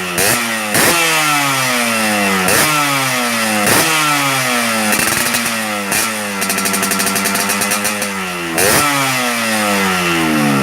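Yamaha RX-King's two-stroke single-cylinder engine revved repeatedly through an aftermarket 3V3 expansion-chamber exhaust. Each blip of the throttle shoots the pitch up sharply, then it falls away slowly toward idle, about eight times.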